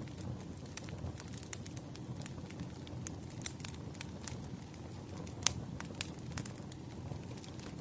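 Burning firewood crackling, with frequent irregular sharp pops over a low, steady rush of flame. One pop about five and a half seconds in is louder than the rest.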